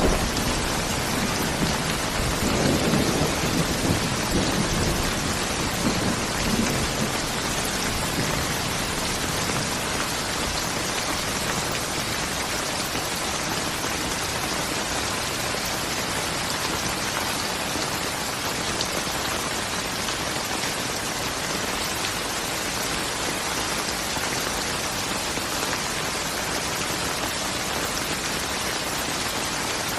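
Steady heavy rain falling, with a low roll of thunder in the first several seconds that fades away.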